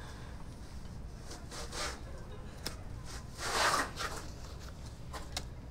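A low steady hum, with a few light clicks and a short rustle, a louder rustle a little after three seconds.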